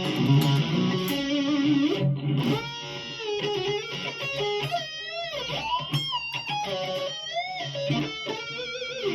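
1992 Gibson Les Paul Custom electric guitar through a high-gain amp, both Oil City Scrap Yard Dog+ humbuckers on (middle position) with the volume full up. It rings out distorted chords for about two seconds, then plays a single-note lead with string bends and wide vibrato, cutting off just before the end.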